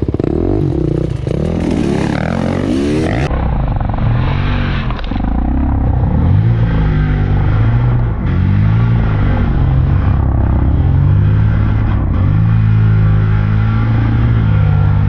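Enduro motorcycle engine ridden hard, its revs rising and falling over and over every second or so.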